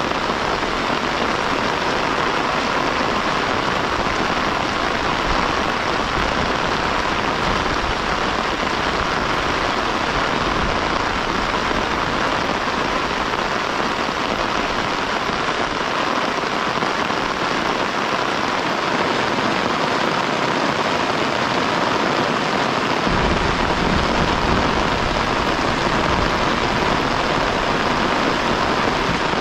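Heavy rain falling steadily, a dense even hiss. A low rumble joins in near the end.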